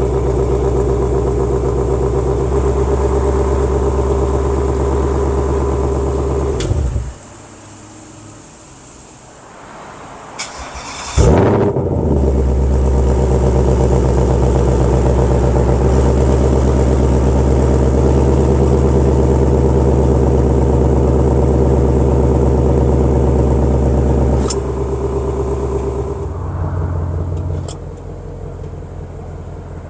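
Car engine idling through an aftermarket exhaust with a 3D-printed Z-pipe mid pipe and 55 cm AdrenalinR resonators. It is switched off about seven seconds in, then warm-started about four seconds later with a sharp flare, and settles into a steady idle. The idle drops in loudness near the end, then drops again.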